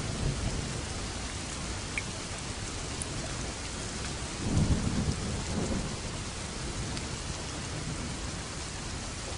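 Steady rain falling, with a low rumble of thunder swelling up about halfway through and rolling on for a second or two.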